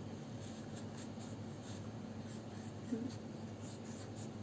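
Light, irregular scratching of a drawing tool on paper as small leaf shapes are sketched, over a faint steady hum.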